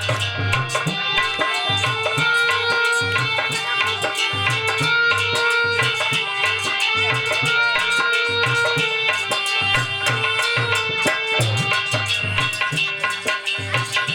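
Instrumental passage of a Hindi devotional bhajan: tabla playing a steady, repeating rhythm under a melody of long held notes.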